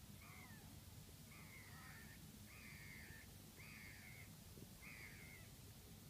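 A faint series of five harsh bird calls, about one a second, over a steady low rumble.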